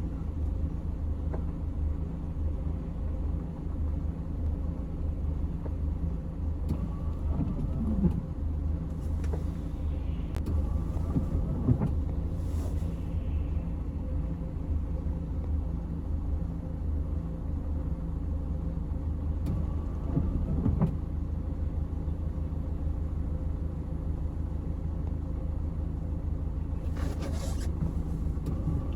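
A vehicle driving, with a steady low engine and road rumble. There are brief hissing swells about a third of the way in and again near the end.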